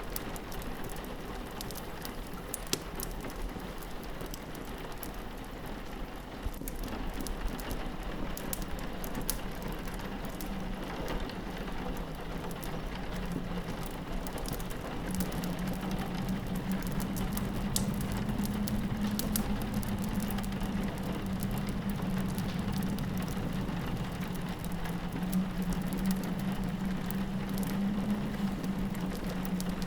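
Rain pattering steadily on a window, mixed with the fine sharp crackle of a wood fire. A low, wavering wind howl grows stronger about halfway through.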